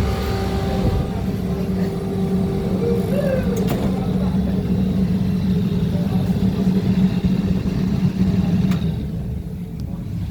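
Steady motor hum with a low drone, which stops about nine seconds in.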